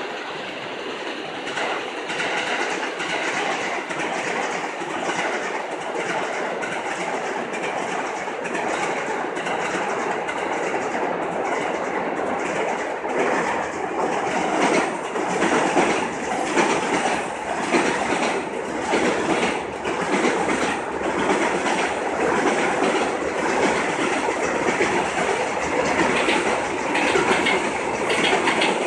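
Electric commuter trains running on rails, wheels clacking steadily over the rail joints, growing louder about halfway through.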